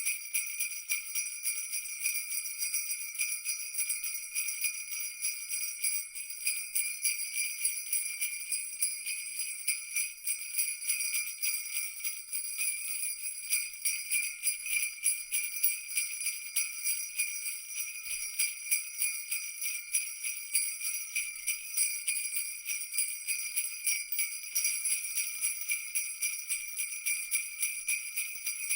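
Jingle bells shaken continuously in a fast, even rhythm, a bright high ringing jingle.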